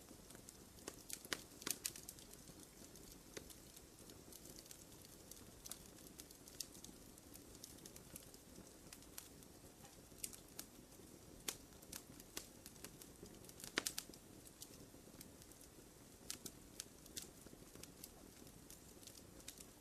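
Small campfire crackling softly: irregular sharp pops and snaps over a low, steady hiss of the burning wood, with a louder cluster of pops about fourteen seconds in.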